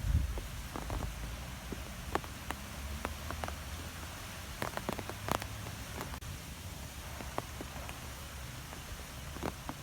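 Wind blowing through trees, with a low rumble of wind on the microphone and scattered, irregular light ticks and taps.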